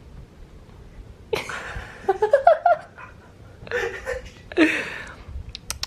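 A person laughing in a few breathy bursts, the longest about a second in, with a couple of shorter laughs after it and a few light clicks near the end.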